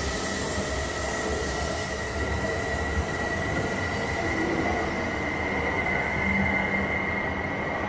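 An E5 series Tohoku Shinkansen train runs along the platform at low speed with a steady rumble and a high-pitched whine. The noise swells slightly as the tail end passes, about six seconds in.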